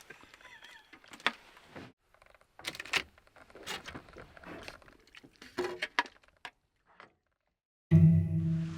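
Camp dishes and utensils clinking and knocking in scattered light strokes. About eight seconds in, after a short dead silence, a steady low hum starts abruptly.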